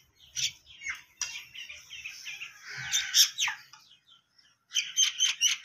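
Small birds chirping, with short calls and a few quick down-slurred notes, then a fast run of repeated chirps about five seconds in.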